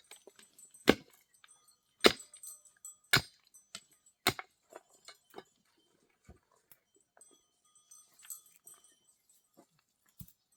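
Sharp knocks, about one a second, four in the first half, followed by fainter scattered clicks and ticks.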